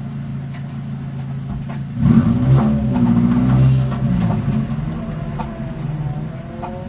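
First-generation Mazda Miata's four-cylinder engine idling, then revving up about two seconds in as the car pulls away, its pitch climbing and dropping a few times before easing back near the end.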